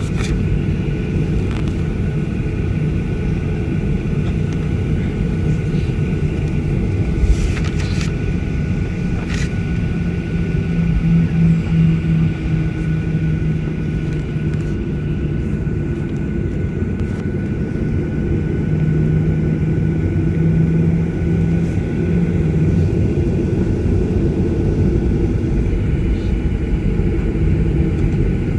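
Airliner jet engines running steadily: a low rumble under a thin, steady high whine, with a few sharp clicks about eight seconds in.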